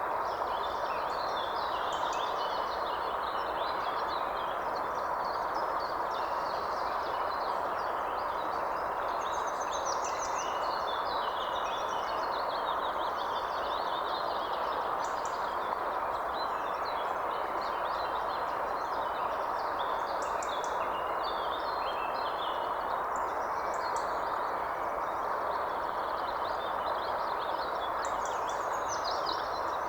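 Several birds chirping and trilling almost without pause, over a steady, even background hiss.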